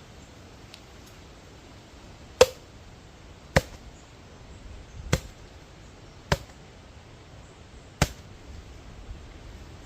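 Five sharp chopping blows, about one every second and a half, as a blade cuts into a green jelly coconut to open it.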